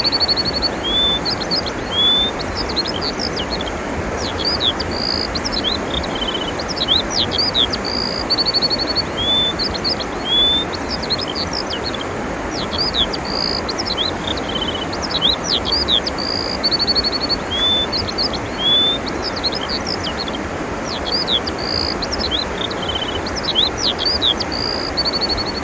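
Birdsong: the same phrase of slurred whistles and a short trill repeats about every six seconds over a steady rushing noise.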